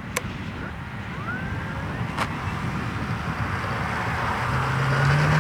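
Electric motor and propeller of a model Bucker Jungmeister biplane spinning up for takeoff: a hum that comes in near the end and rises in pitch as it gets louder, over a steady rush of wind and ambient noise.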